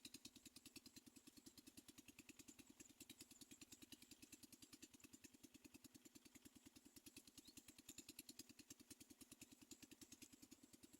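Faint small engine idling: a steady throb of about seven even pulses a second.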